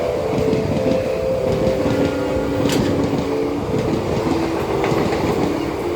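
Express passenger train running along the track: a steady rumble and clatter of wheels on rails, with sustained humming tones that shift in pitch and one sharp click about midway.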